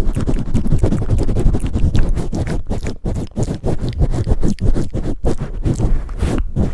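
Fast, loud scratching and rubbing right against a microphone, with a heavy low thumping from the mic being handled: close-miked ASMR mic-handling sounds.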